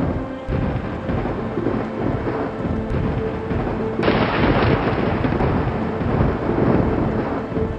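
Thunderstorm: heavy rolling thunder rumbling continuously over steady rain. The rain's hiss grows brighter and fuller about four seconds in.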